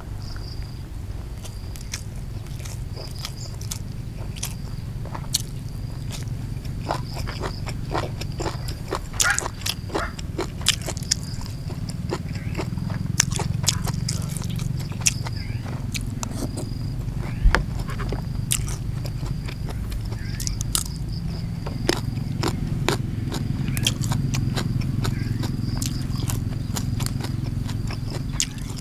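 Close-up mouth sounds of a person eating raw beef: wet chewing, smacking and sharp clicks, irregular throughout, over a steady low rumble and a faint, steady high whine.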